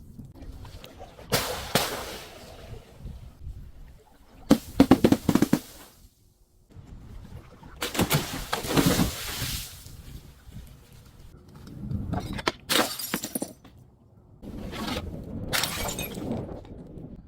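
Glass bottles and other crunchy objects being broken and crushed: about five separate bursts of cracking, crunching and shattering, with short pauses between them.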